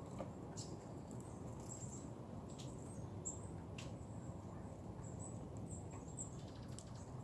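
Outdoor ambience: a steady low background rumble, with faint, brief high-pitched chirps and a few light clicks or taps scattered through it.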